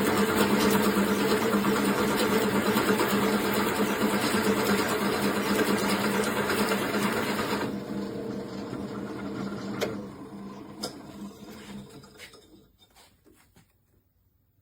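Electric drill motor running steadily as it turns a 2-inch Forstner bit. About eight seconds in it drops off and winds down over a few seconds, with a few clicks as it stops.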